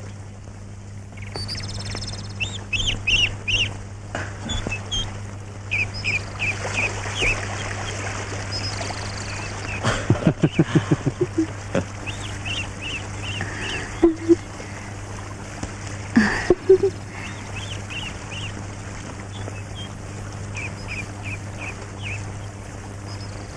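Birds calling: short high chirps repeated throughout, with a rapid run of about eight lower calls about ten seconds in and a few single calls later. A steady low hum runs underneath.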